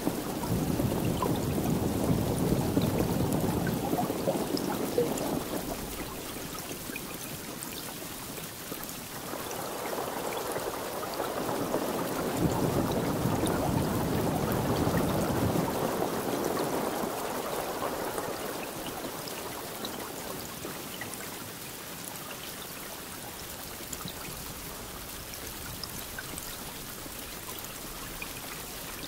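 Steady rain with two long rolls of thunder: the first rumbles through the opening six seconds, the second builds about nine seconds in and fades out by about eighteen seconds.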